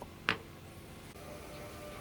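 A single sharp click, like a small hard part or tool set down on a bench, then faint background music from about a second in.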